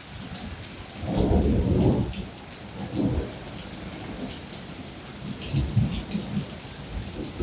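Rain pouring down through a thunderstorm, with rolls of thunder rumbling over it. The loudest rumble comes about a second in and lasts about a second, and smaller ones follow around three and six seconds.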